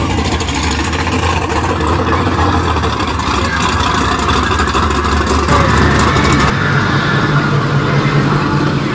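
A car engine running steadily, its note shifting higher about halfway through, over background crowd noise.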